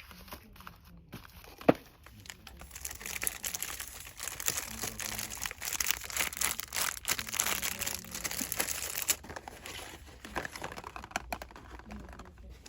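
Cosmetics packaging being crinkled and rustled by hand in quick, vigorous strokes, after a single sharp tap. The crinkling is heaviest through the middle and then eases off.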